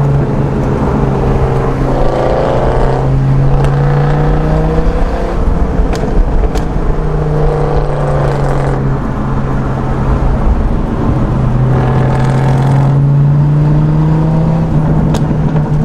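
A 2005 Dodge Viper's 8.3-litre V10 running through a custom crossover-pipe exhaust with no mufflers, a steady engine note whose pitch rises briefly about two seconds in and again about twelve seconds in.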